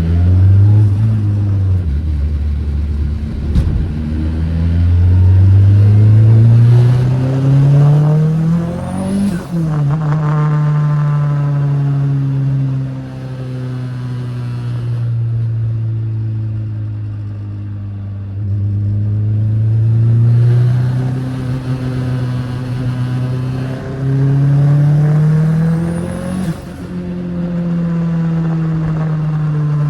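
Turbocharged Honda K20 inline-four in a Toyota MR2, pulling hard twice: the engine note climbs steadily to a peak about nine seconds in and again near the end. A high whistle rises at the top of each pull, and the note falls back as the driver lifts in between.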